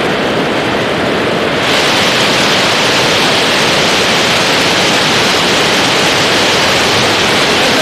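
Hail and heavy rain pelting down in a dense, steady hiss. It grows louder and brighter about two seconds in.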